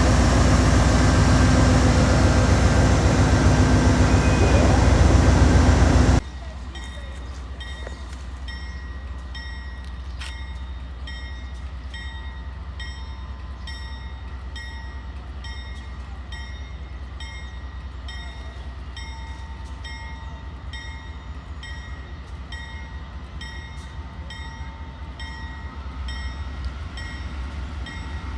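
Freight train passing: the loud, steady sound of a locomotive close by gives way abruptly, about six seconds in, to a quieter rolling of wagons with a regular clicking rhythm of wheels over the rails.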